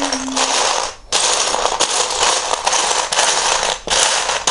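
Hands rummaging through a pile of loose plastic Lego bricks, the pieces clattering densely and loudly while searching for a part, with a short pause about a second in.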